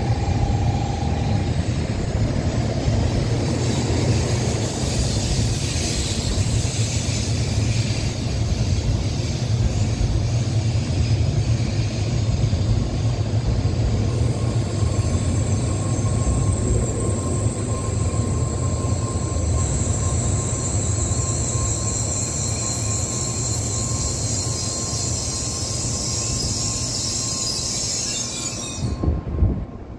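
An N700-series Shinkansen train running past along the platform: a steady, loud rumble of wheels and running gear. A high hiss and whine build up about halfway through, and the sound drops away suddenly near the end as the last car goes by.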